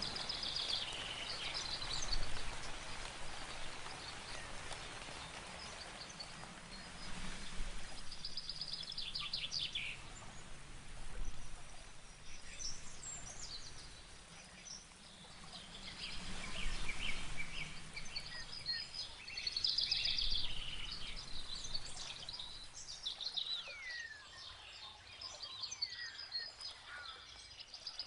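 Songbirds singing in repeated trills and chirps over a steady hiss of rain. The rain hiss thins out near the end while the birds keep singing.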